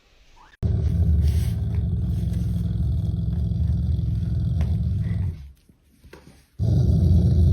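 An animal's loud, low rumble close to the microphone, in two long stretches with a break of about a second near five seconds in.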